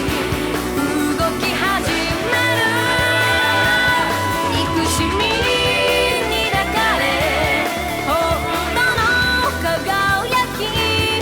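Anime opening theme song: a pop-rock song with a sung melody over a full band backing.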